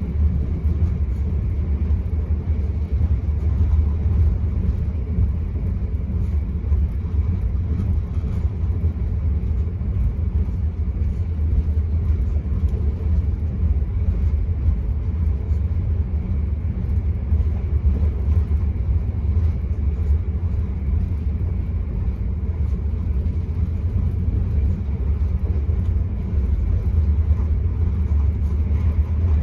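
Enterprise passenger train running, heard from inside the coach: a steady, deep rumble of wheels on rail with no change throughout.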